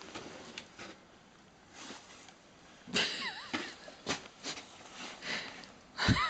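Irregular swishing and scraping strokes of light powder snow being shoveled, with a short high squeak about three seconds in and a low thump near the end.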